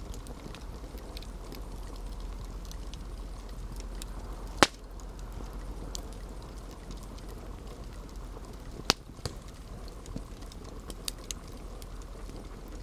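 Campfire burning with a steady hiss and scattered crackles, and two loud sharp pops from the burning wood, one about a third of the way in and one about two-thirds in, followed by a few smaller snaps.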